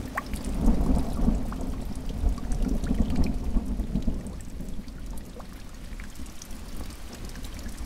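Thunder rumbling low over steady rain, with single raindrops tapping throughout. The rumble swells about half a second in and eases off after about four seconds.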